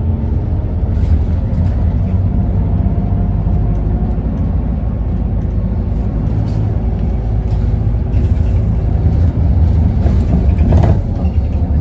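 Isuzu Erga city bus's four-cylinder diesel engine heard from inside the cabin: a steady low hum with a deep drone underneath. A brief hiss rises near the end.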